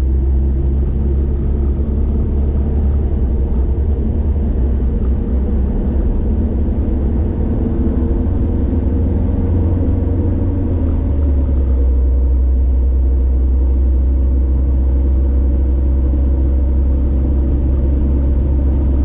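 Steady low rumble of a car driving along a highway, engine and road noise running evenly with no distinct events.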